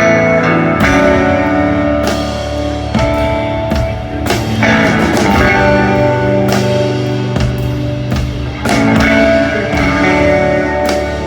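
A band playing a guitar-led instrumental passage of a slow song, with sustained chords and strummed strokes and no singing.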